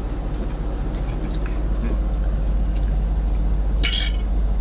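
Truck engine running with a steady low rumble, and a short sharp rustle or click near the end.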